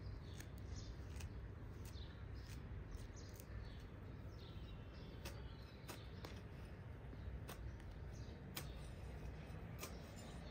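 Outdoor ambience: birds chirping in short, scattered calls over a low, steady rumble.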